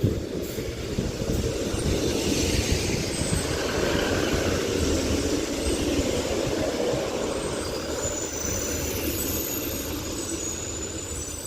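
Northern Class 156 diesel multiple unit running into the platform, a steady rumble of engine and wheels on rail that eases slightly as it slows. Faint high squeals come in near the end.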